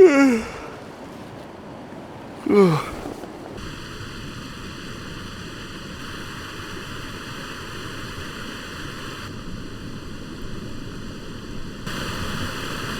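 Two short falling groans from a man's voice, then the steady rush of a stream in spate, running heavily after a night of heavy rain.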